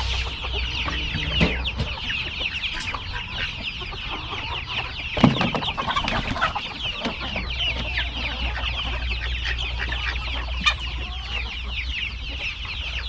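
A flock of chickens clucking and chattering continuously at feeding time, many short calls overlapping. A sharp knock about five seconds in, with a few lighter ones elsewhere.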